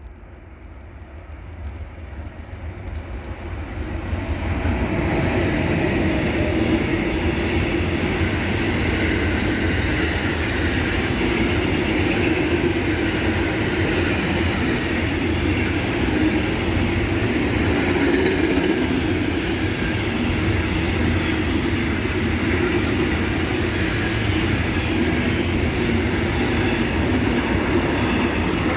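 Freight train approaching and passing close by. Its wheels run on the rails, growing louder over the first five seconds and then holding as a steady rumble while the wagons go past.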